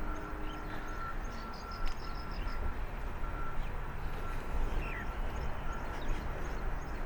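Small birds chirping, with a quick run of high notes about two seconds in, over a steady low rumble. A thin beep at a single pitch repeats throughout.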